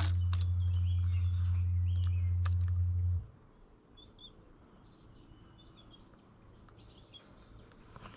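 A steady low hum that cuts off suddenly a little over three seconds in, followed by faint chirping of small birds.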